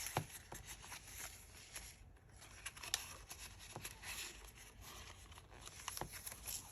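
Paper rustling with scattered light taps and clicks as the pages of a handmade paper junk journal are handled and turned.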